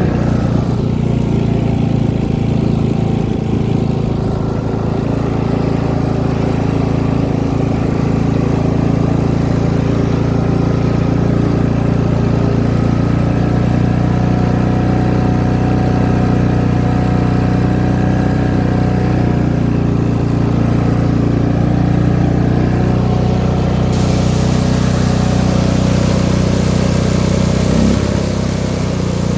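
MTD lawn tractor's small engine running steadily, with a little more hiss from about three quarters of the way in.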